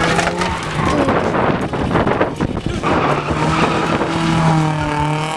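Drifting car's engine held at high revs with tyres skidding on the pavement. The steady engine note breaks into rough noise for about two seconds in the middle, then comes back and holds.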